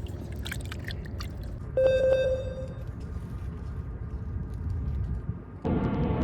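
Steady low outdoor rumble of wind on the microphone. About two seconds in, a single short ringing tone sounds and fades within a second, and near the end background music starts abruptly.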